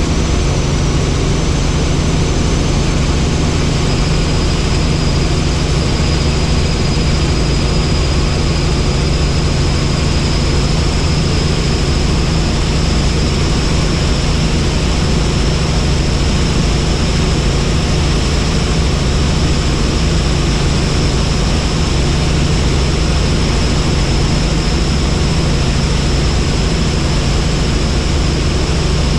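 Helicopter in flight: a steady, loud drone of rotor and engine, with a thin high whine held above it throughout.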